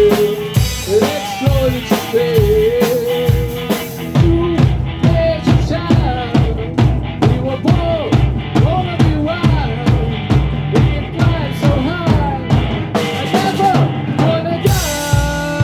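Rock song with a full drum kit keeping a steady beat of bass drum and snare under a melody line. The high cymbal wash drops away about four seconds in and comes back near the end.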